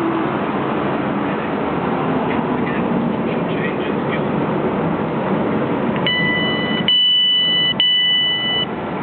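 Noise of a train arriving at the platform, then from about six seconds in a steady high-pitched electronic warning tone sounding in three stretches.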